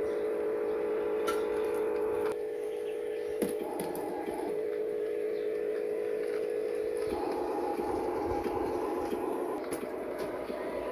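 Huina Scania RC tractor unit running under load, a steady whine whose pitch and tone shift a few times, with a few faint clicks.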